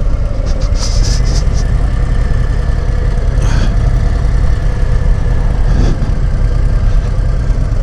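Harley-Davidson Low Rider ST's Milwaukee-Eight 117 V-twin running steadily at low speed as the bike rolls in to pull over, with no revving.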